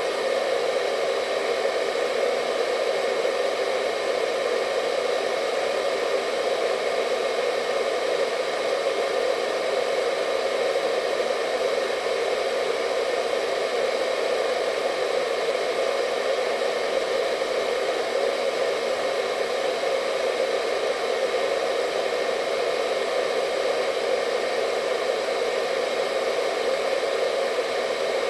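Hair dryer running steadily, a constant blowing whoosh with a faint whine of tones above it, unchanging throughout.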